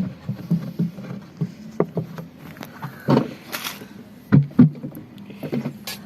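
Irregular knocks, clicks and a short scrape of tools and metal parts being handled, with two louder knocks near the end, over a steady low hum.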